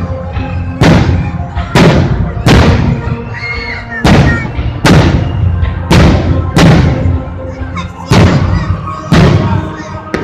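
Aerial fireworks shells bursting in quick succession, about ten loud bangs roughly a second apart, each trailing off, with music playing underneath.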